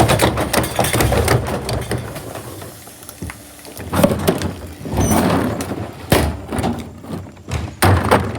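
Garbage truck working: a low engine rumble at first, then several loud clattering, banging bursts.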